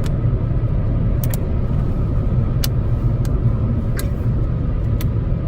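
Steady low rumble of a car driving, heard from inside the cabin, with a few scattered sharp clicks.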